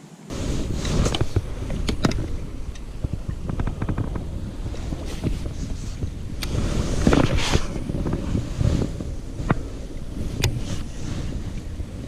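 Wind buffeting the microphone on a kayak on open water, with scattered sharp knocks and clicks. It starts suddenly about a third of a second in.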